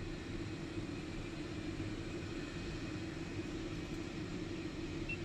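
Steady low engine rumble with a hiss, from an aircraft running on the ramp.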